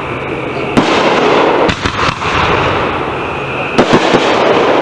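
Consumer aerial fireworks bursting in the sky: a sharp bang about a second in, a quick cluster of bangs around two seconds, and two more close together near the end, with a continuous hiss of noise in between.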